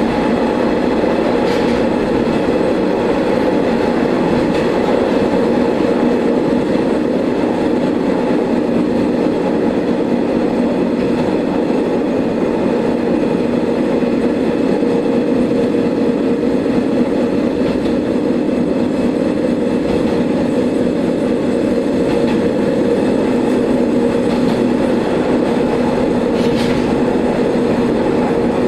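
Diesel railcar running along the line at steady speed, heard from inside the car: a steady engine drone over wheel-on-rail noise, with a few faint clicks from the track.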